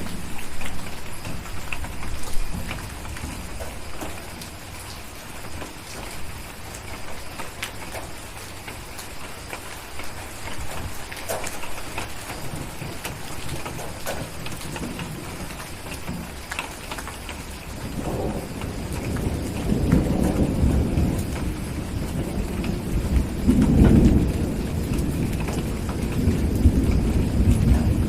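Steady rain falling, with scattered sharp crackles of a wood fire. A deep rumble of thunder rolls in about two-thirds of the way through and swells a couple of times near the end.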